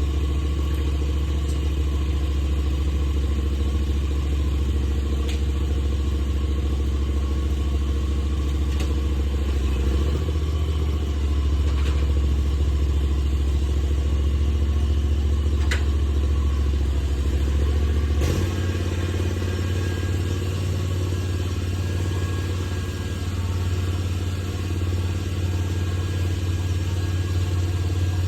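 An engine running steadily with a low hum, shifting pitch about ten seconds in and again near eighteen seconds, with a few light clicks over it.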